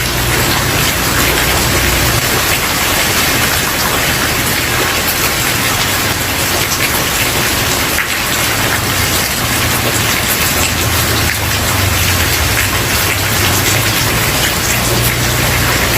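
Steady rain falling on a wooden porch, an even hiss of many drops with no sudden sounds. A low rumble underneath swells and fades a few times.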